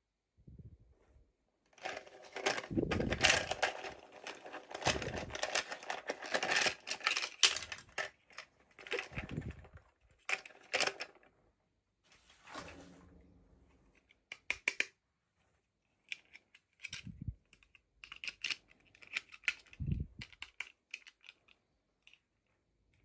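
Hands unboxing small plastic toy packaging: rapid plastic clicks and crinkling, dense for the first half, then scattered sharp clicks with a couple of soft thumps.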